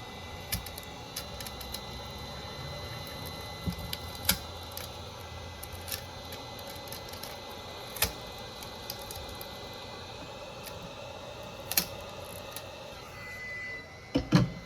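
Scattered sharp clicks and taps of small repair tools handling a smartphone's parts, over a steady electrical hum, with a louder cluster of knocks near the end.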